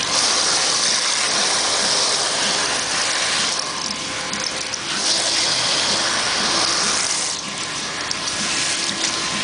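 Running water from a salon wash-basin spray rinsing a client's hair, a steady hiss that thins briefly twice.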